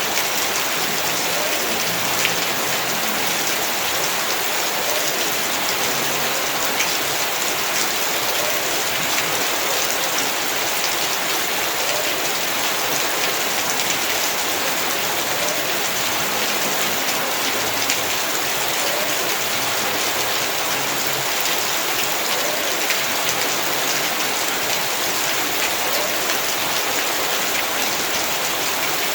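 Heavy rain falling steadily, a dense hiss with the fine patter of drops hitting surfaces.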